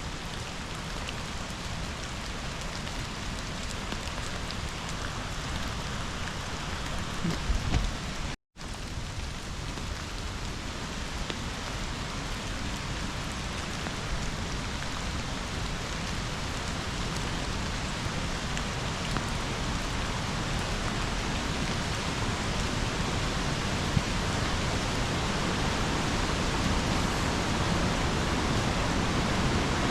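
Steady rain mixed with rushing river water, growing gradually louder towards the end. About eight seconds in there is a brief low thump, then the sound cuts out for a moment.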